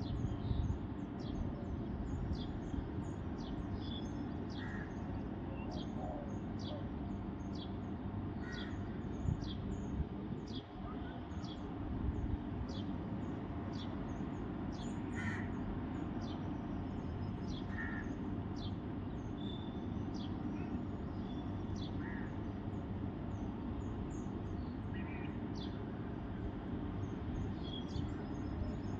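Birds calling outdoors: a steady series of short, high chirps about once a second, with a few lower calls mixed in, over a constant low background rumble.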